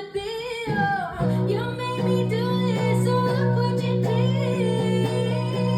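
A woman singing a line that slides up and down in pitch, without clear words, over guitar; steady low guitar chords come in about a second in.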